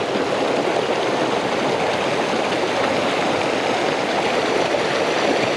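Fast-flowing creek swollen by heavy rain, its water rushing steadily and loudly over rocks close by.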